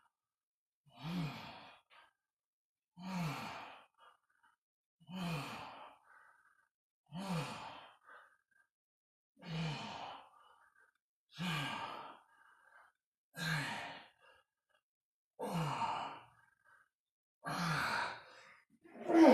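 A man breathing out hard with a little voice in each breath, like a sigh, in a steady rhythm of about one every two seconds, ten times: the effort breaths of dumbbell repetitions. The last breaths near the end are louder.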